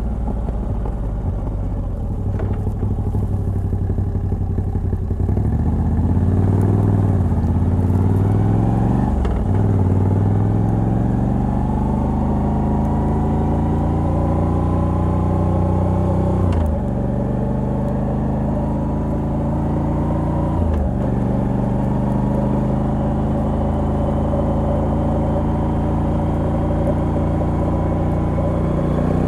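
Moto Guzzi V85TT's air-cooled transverse V-twin, through the stock exhaust with a decat pipe, accelerating through the gears. Its pitch climbs and drops at three upshifts, about nine, seventeen and twenty-one seconds in, then holds fairly steady.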